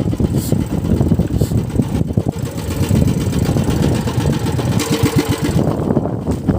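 A small fishing boat's engine running steadily with a fast, even chugging rattle.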